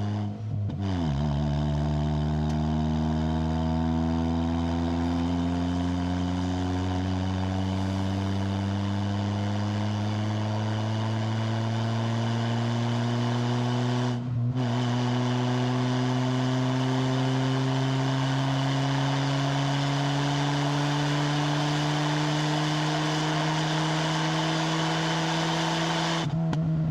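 Exhaust note of a 4B11 2.0-litre MIVEC inline-four breathing through a MAX Racing R5500 muffler, pulling uphill under load. Its pitch climbs slowly, with short breaks about a second in, about halfway and near the end.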